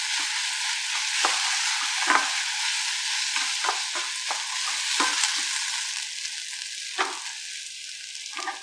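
Chopped onions, green chillies and dals sizzling in oil in a stainless steel kadai, stirred with a wooden spatula that scrapes and knocks against the pan at irregular moments. The sizzle slowly dies down toward the end.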